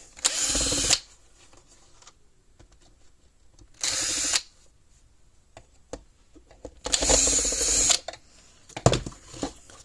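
Cordless drill-driver running in three short bursts of about a second each, backing screws out of a plastic fence-charger case, with light clicks and handling sounds between the bursts.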